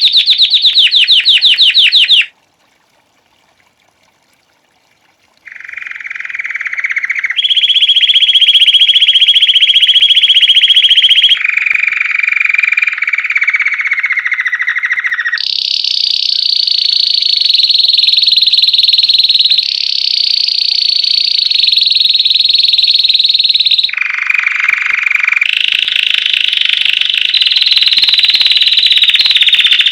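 Belgian canary singing: a fast trill breaks off about two seconds in, and after about three seconds of silence the bird starts again with a string of loud rolling trills, each held steady for a few seconds before it jumps abruptly to a higher or lower pitch.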